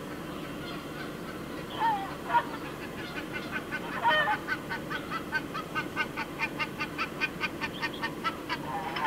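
Birds calling: a few honking calls, then from about three seconds in a fast, even run of short calls at about four or five a second, over a steady low hum.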